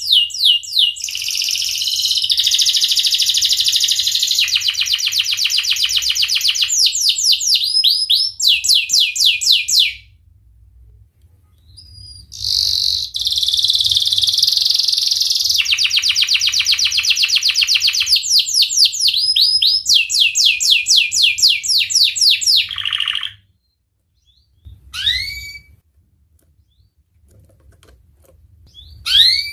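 Domestic canary singing: two long bouts of fast rolling trills, each about ten seconds, broken by a short pause, then two brief single chirps near the end.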